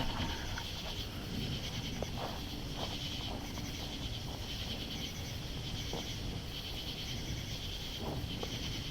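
Night insects chirring in a steady, unbroken high chorus, with a few faint soft ticks in between.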